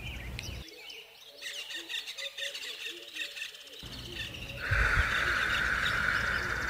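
Several birds chirping and calling in a natural soundscape. A little past the middle, a steady hiss comes in and becomes the loudest sound.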